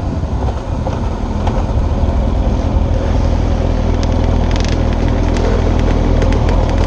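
Motorcycle engine running steadily at low revs while riding, with road and wind noise and a few scattered short clicks.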